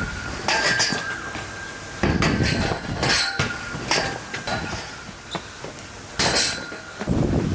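A series of sharp metallic clanks and knocks, about five spread over several seconds, several of them leaving a brief ringing tone.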